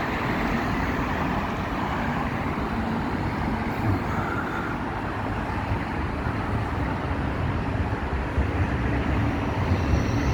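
Steady road traffic going by: a continuous rumble and hiss of passing vehicles.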